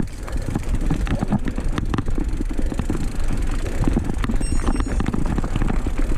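Mountain bike rolling over a rough forest trail: a steady low rumble with constant rattling knocks from the tyres and frame.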